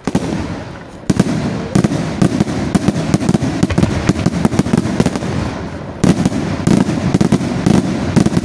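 Aerial fireworks bursting: one report at the start, then from about a second in a dense, rapid crackle of many small sharp reports, with another loud burst about six seconds in.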